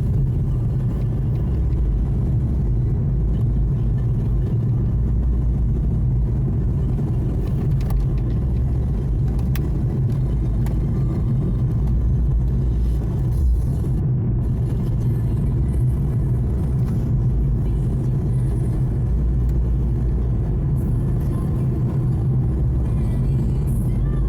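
A car's cabin while it is being driven: a steady low road and drivetrain rumble.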